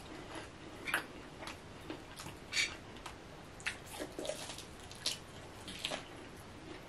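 Quiet, scattered smacks and clicks of eating, from a person chewing fried chicken.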